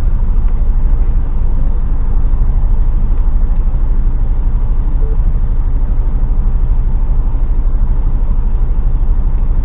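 HGV truck's diesel engine idling steadily, a continuous low rumble heard from inside the cab while the truck stands in a traffic jam.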